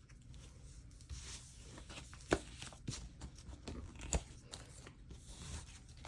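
Crinkly rustling of paper sticker sheets and their plastic packaging being handled, with two sharp clicks, about two and four seconds in.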